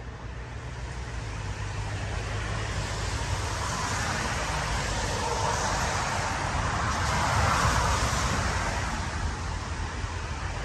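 A road vehicle passing, its noise swelling gradually to a peak about seven seconds in and then fading.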